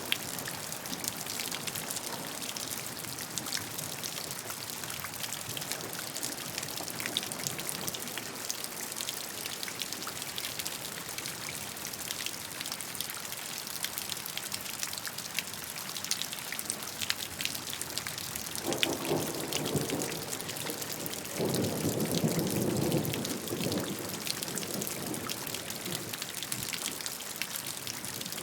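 Steady rainfall, with many drops pattering. About two-thirds of the way through there are two louder, deeper stretches a few seconds long.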